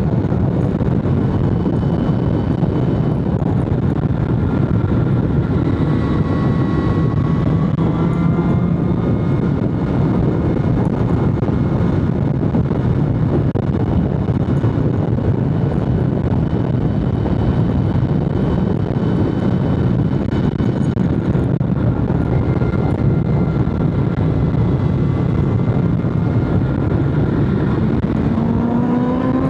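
BMW S1000RR inline-four engine running at a steady cruise under a heavy rush of wind and road noise, its pitch shifting slightly a few times and climbing near the end as the bike accelerates.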